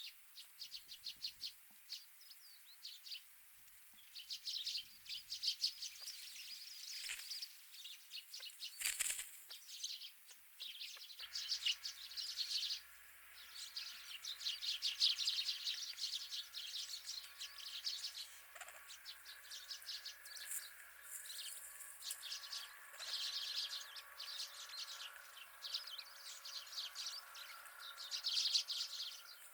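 Many small wild birds chirping and twittering in a continuous, overlapping chatter, with a short noisy burst about nine seconds in.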